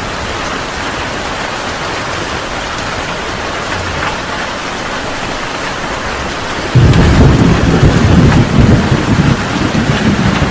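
Heavy rain falling steadily, then about two-thirds of the way in a sudden loud, deep thunder rumble breaks in and rolls on to the end.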